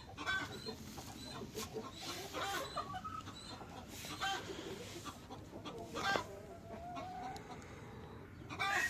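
Chickens clucking, with short calls scattered throughout; a rooster starts to crow right at the end.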